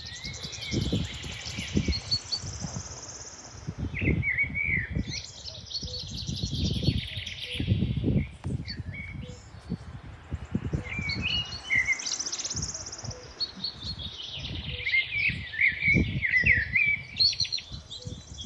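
Songbirds singing continuously, a tumble of quick chirps, trills and warbles, over irregular low rumbling surges.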